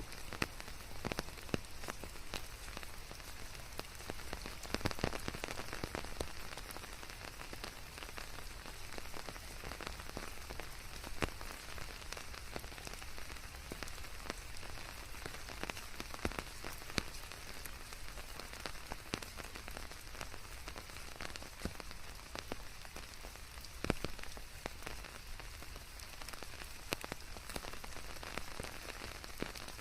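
Steady rain falling on foliage, an even patter with scattered louder drops, a few standing out around 5, 11 and 24 seconds in.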